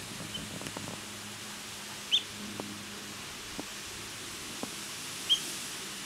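Two short, sharp bird calls about three seconds apart, high-pitched, over a steady background hiss.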